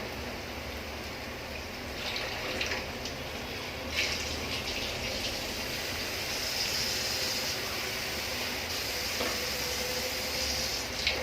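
Water being poured into a cooking pot of spice masala for chicken biryani, a steady pour with a couple of brief clinks.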